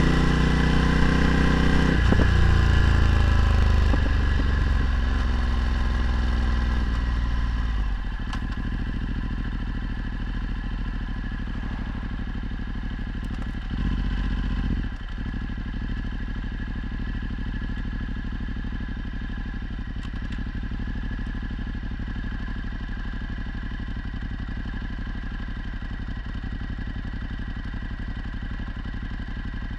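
Ducati Multistrada 1260's V-twin engine through a Termignoni exhaust, its revs falling over the first several seconds and then settling to a steady low-rev run. There is a short rise in revs about halfway through.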